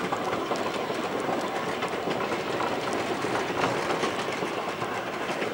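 Narrow-gauge railway carriage running along the track, its wheels clattering with many short clicks over a steady rumble.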